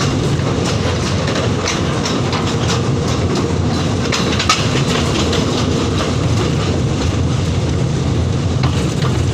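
A train running along the track, heard from on board: a steady low rumble with irregular wheel clicks and rattles.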